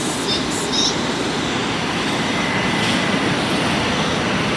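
Electric commuter train running past on the rails with a steady rumble, a few light clicks in the first second and a faint thin squeal a couple of seconds in.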